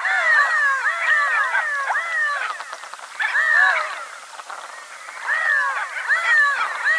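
Redhead ducks calling in a group: many overlapping arched calls that rise and fall in pitch, coming in waves with short lulls between them.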